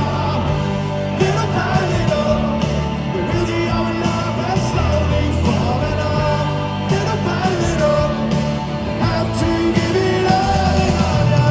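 Live rock band playing a song, with a lead vocal singing over guitars, bass and drums.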